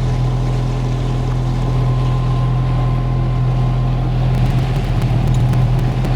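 A yacht's inboard engine running steadily under way, a constant low hum, with a few faint clicks in the last couple of seconds.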